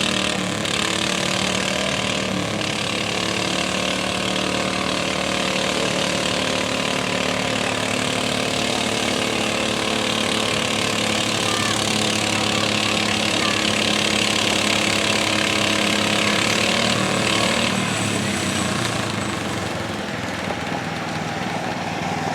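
Garden tractor engine running hard at steady high revs during a pull, easing off about seventeen seconds in.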